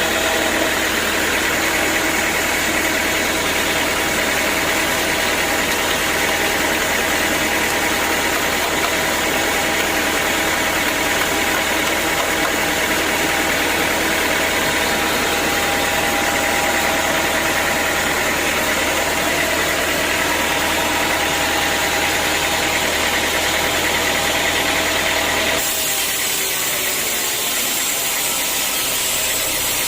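Sawmill machinery running steadily while sawing teak, a motor's hum with a saw's noise over it. The sound changes abruptly a few seconds before the end.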